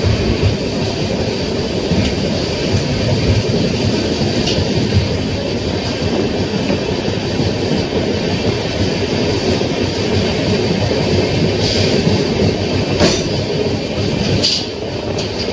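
Kerala Express passenger coach running along the track: a steady, loud rumble of wheels on rails, with two sharp clicks near the end.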